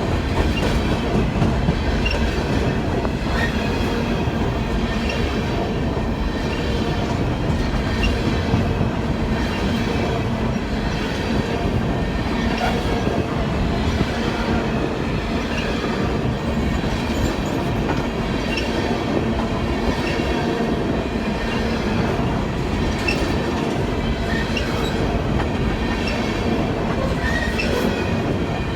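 Train rolling along the track: a steady rumble of wheels on rail with scattered faint clicks and light wheel squeal.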